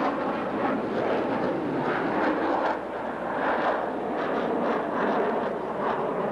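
Steady noise of jet aircraft engines in flight, dipping briefly about three seconds in.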